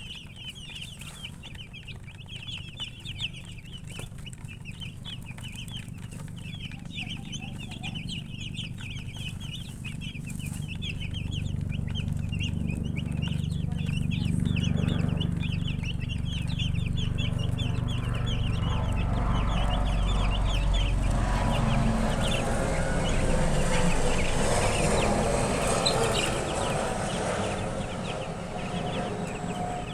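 A brood of baby chicks peeping rapidly and continuously in short high-pitched chirps. A low rumble builds through the middle and stops about two-thirds of the way in, and a broad noise grows louder in the second half and partly covers the peeping.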